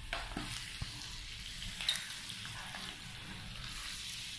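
Pieces of liver and skin frying in oil in a pan with spices: a steady sizzle, with a few light clicks from the spatula against the pan.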